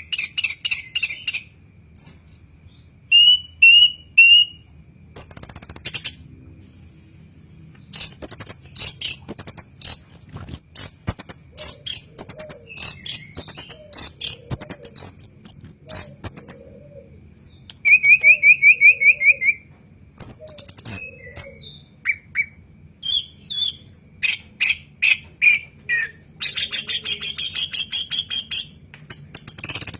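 Anis kembang (chestnut-capped thrush) singing loudly in varied phrases: sharp whistled notes, quick slurs, rapid runs of repeated notes and chattering bursts, separated by short pauses.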